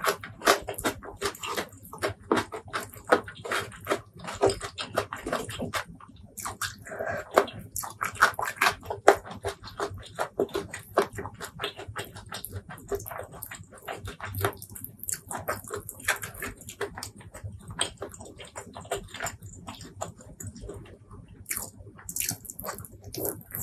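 Close-miked eating sounds: wet chewing and lip-smacking on rice and chicken curry, a quick, irregular run of sticky clicks, with fingers squishing and mixing the sauce-soaked rice.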